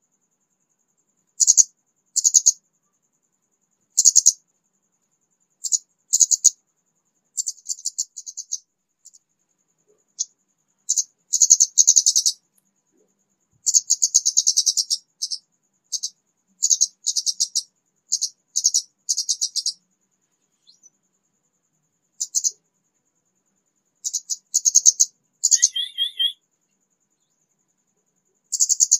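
A kemade bird chirping in short bursts of very high, rapid trills separated by silent gaps, with a lower, wavering phrase once near the end. This is a newly caught bird that has just begun to sing.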